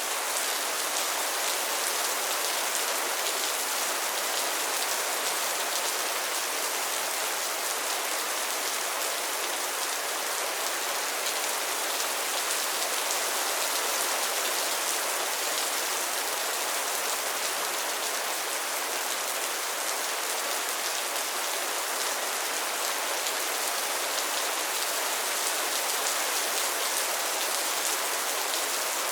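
Steady rain falling on a pond's water and lily pads: a dense, even hiss of countless small drop impacts that holds level throughout, with no thunder.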